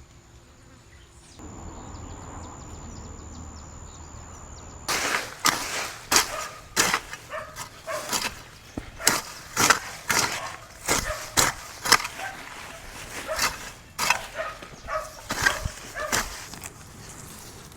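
A faint steady background with a thin high steady tone, then, about five seconds in, a run of irregular sharp knocks like steps on hard ground, one or two a second, fading near the end.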